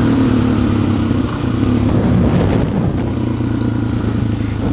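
Dual-sport motorcycle engine running while riding, a steady drone whose pitch dips and shifts about halfway through before settling again.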